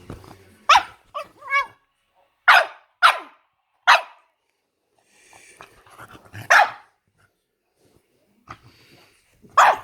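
A bulldog squealing and barking in short, high calls, about eight of them spread out with pauses between.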